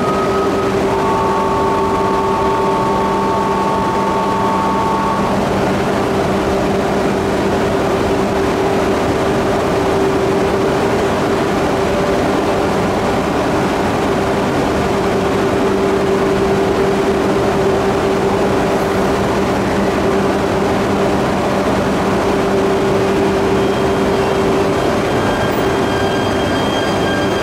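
E3 series 2000 Shinkansen train standing at the platform, its onboard equipment giving a loud, steady drone with a steady low hum. Two brief electronic tones sound in the first few seconds. Near the end a higher whine sets in as the train begins to pull away.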